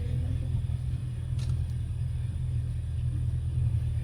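Steady low rumble of a running vehicle, with a faint click about a second and a half in.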